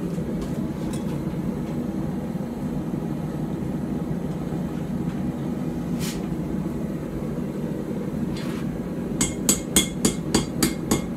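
Steady low noise of the forge running, then about two seconds from the end a dog-head forging hammer starts striking the hot puukko blade on the anvil in quick, even blows, about four a second, each with a bright ring.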